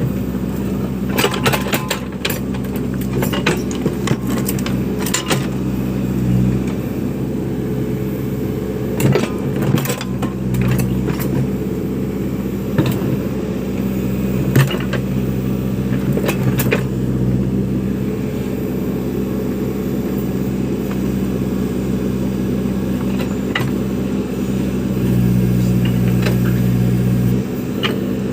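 Backhoe loader's diesel engine running steadily under work, with scattered metallic clanks and knocks from the machine and its bucket. Near the end the engine revs up for a couple of seconds, then drops back.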